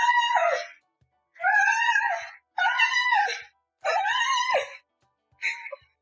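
Cat meowing in long, drawn-out calls: four about a second each with short pauses between, each dropping in pitch at the end, then a shorter meow near the end.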